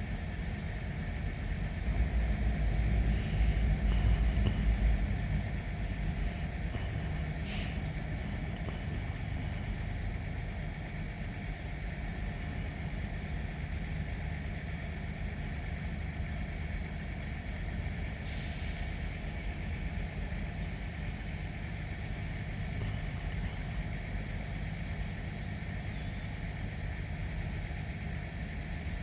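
Diesel locomotive engine running steadily at low revs, with a louder low rumble for a few seconds near the start and a few short sharp clicks.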